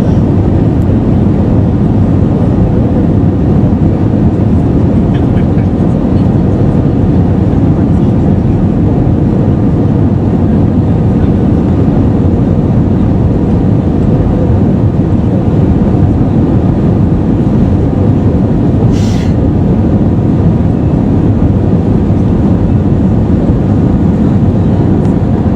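Steady, loud rumble of an Airbus A320 airliner heard from inside the cabin: the roar of its CFM56 turbofan engines and airflow, with a faint steady hum. A brief hiss about three-quarters of the way through.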